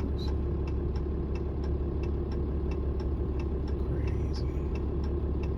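A heavy-duty pickup truck's diesel engine running with a steady low drone, with a faint rapid ticking about five times a second over it.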